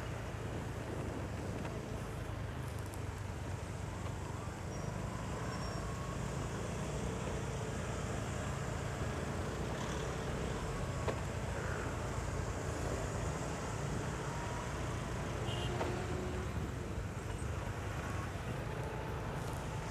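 Steady wind rush and road noise from a motorcycle riding at speed, with the engine running underneath.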